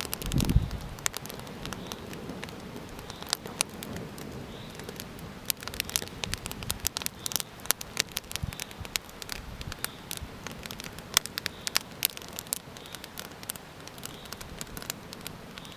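Small wood campfire crackling, with many sharp, irregular pops and snaps over a soft hiss. A brief low rumble comes about half a second in.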